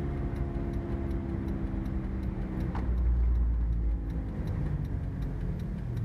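Car turn-signal flasher ticking steadily, about three ticks a second, inside the cabin over engine and road rumble; the rumble swells for about a second midway.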